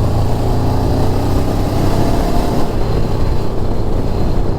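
Motorcycle engine running steadily while riding, with wind rushing on the microphone that eases a little about two and a half seconds in.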